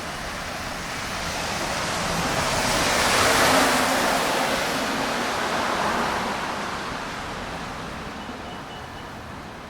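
A vehicle passing on wet road: the hiss of its tyres on the water swells to a peak about three and a half seconds in, then fades away.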